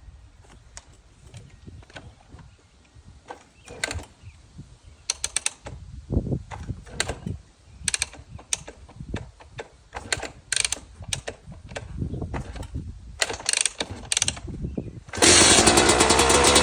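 Scattered mechanical clicks and knocks as the 2023 Yamaha YZ250 two-stroke dirt bike is readied and kicked over. About fifteen seconds in, the engine catches on a cold start and runs loud and steady.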